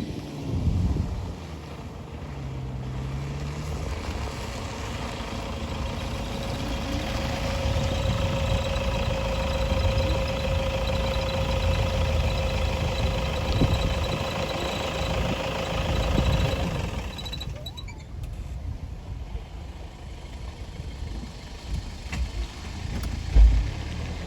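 Safari jeep driving on a dirt track: steady engine and road rumble. A steady whine rises in about a third of the way through and cuts off about two-thirds in, after which the rumble is quieter, with a few knocks near the end.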